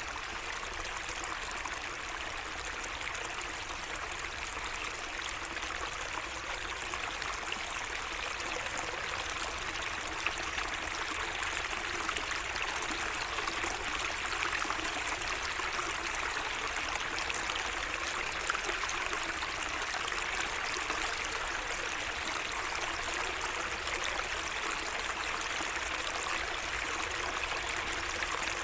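Water flowing steadily in a small garden stream, an even, unbroken trickle.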